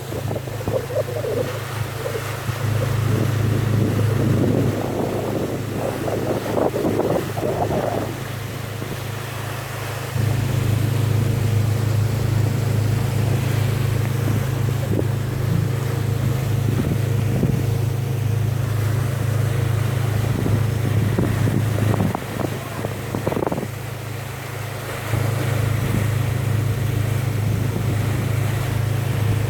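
A boat's engine drones steadily, with wind on the microphone and water splashing against the hull. The drone steps louder and softer several times.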